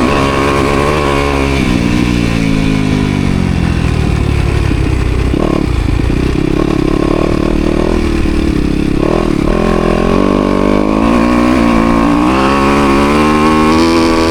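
Yamaha dirt bike's engine under way on a lap, revving with the throttle: the pitch falls over the first few seconds, holds lower through the middle, then climbs again toward the end.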